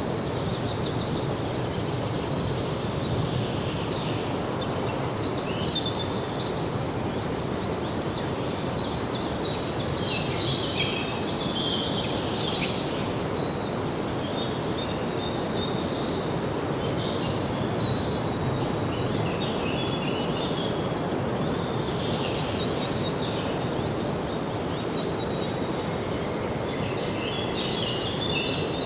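Several small birds chirping and trilling almost without pause over a steady low rumble of outdoor background noise.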